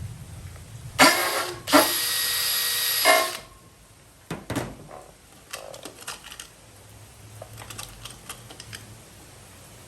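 Power drill-driver running in two short bursts about a second in, driving a screw, with a steady motor whine. A few sharp clicks follow, then light ticking of handling.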